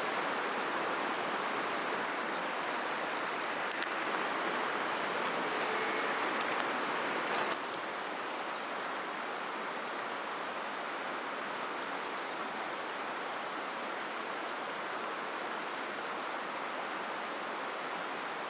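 Steady rushing of a flowing river, dropping a little in level about seven and a half seconds in.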